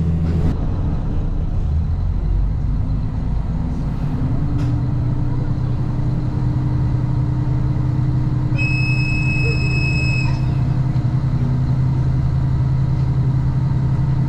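Vehicle engine running with a steady low drone, its pitch stepping up about half a second in. A high electronic beep sounds for under two seconds about eight and a half seconds in.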